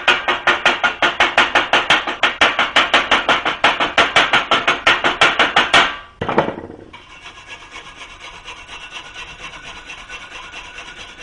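Wire brush scrubbing flux-core weld slag off steel in fast back-and-forth strokes, about five a second. About six seconds in there is one more scrape, then a quieter, steadier rasping.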